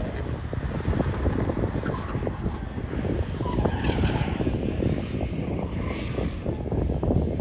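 Sports car engine running hard as the car is driven fast through an autocross course.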